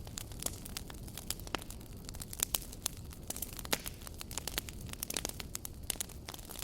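Campfire crackling: irregular sharp pops and snaps, several a second and uneven in loudness, over a low steady rumble.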